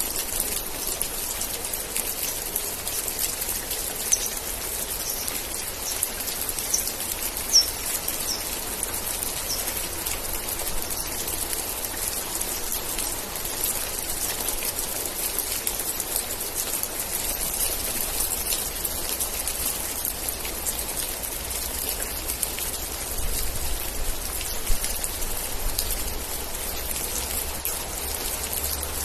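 Steady rain, with dense hiss and individual drops pattering and striking close by. A few short high chirps come about five to nine seconds in.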